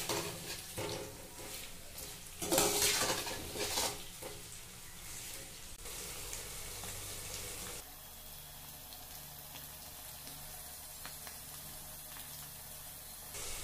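Halved potatoes sizzling in hot oil in a non-stick kadhai as they fry toward light brown. A slotted spatula scrapes and turns them in several loud strokes during the first four seconds, then the steady sizzle carries on alone.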